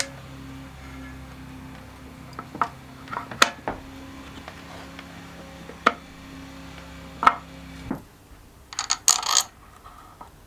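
Background music with held tones that stop about eight seconds in. Over it come several sharp clicks and knocks of tools and metal parts being handled during engine assembly, then a short burst of clatter near the end.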